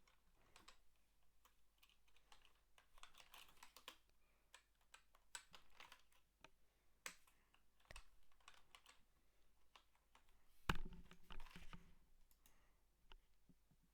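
Soft, irregular keystrokes on a computer keyboard, typing at an uneven pace, with a louder cluster of clatter about eleven seconds in.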